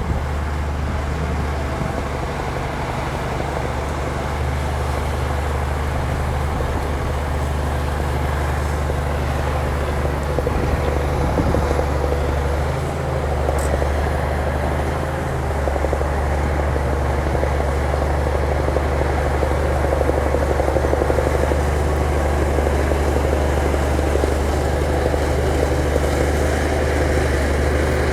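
Heavy earthmoving machine's diesel engine running steadily, a deep continuous drone.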